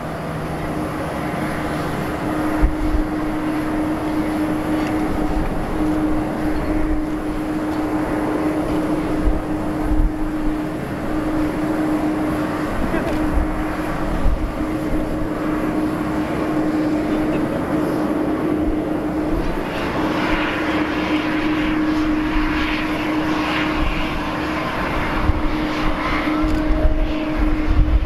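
Airbus A330-300 airliner on the apron during pushback: a steady humming tone over a continuous rumble of aircraft noise. The noise grows fuller and brighter about twenty seconds in.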